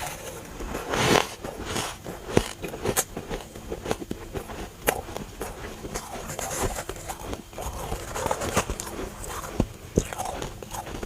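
A person biting and chewing chunks of freezer frost close to the microphone: a dense run of crunches and sharp cracks, the loudest about a second in.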